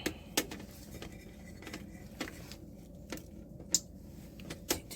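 Irregular light clicks and taps of small hard parts and tools being handled, about six in all, the sharpest a little before the end.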